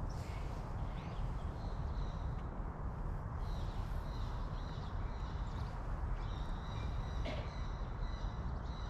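Birds calling repeatedly, with short high calls coming and going over a steady low rumble.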